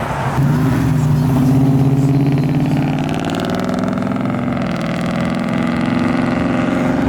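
A car's engine running as it rolls past, a steady low drone that sets in just after the start and eases a little midway.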